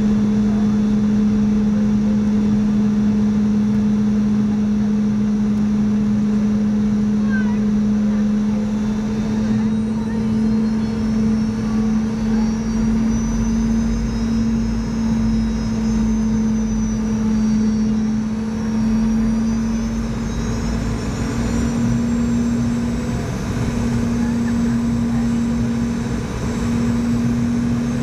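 Cabin noise of a Boeing 717-200 in flight: the steady drone of its Rolls-Royce BR715 turbofan engines, a strong low hum with a higher whine above it. The pitch shifts slightly as the engine power changes, once about ten seconds in and again past the twenty-second mark.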